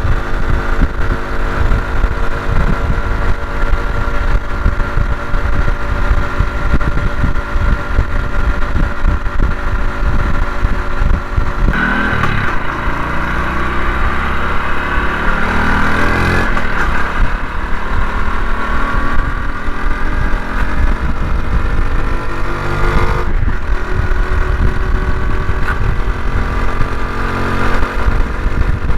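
Honda CT125 Hunter Cub's single-cylinder engine running under way, with strong wind buffeting the microphone. The engine note shifts about twelve seconds in, with the pitch gliding for a few seconds, and shifts again near twenty-three seconds.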